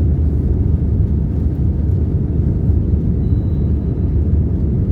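Cabin noise inside an Airbus A320 with CFM56-5B engines: a steady, deep rumble of engine and airframe noise, even in level throughout.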